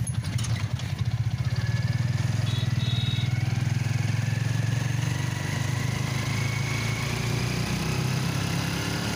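A small vehicle engine running steadily close by, with a fast, even throb.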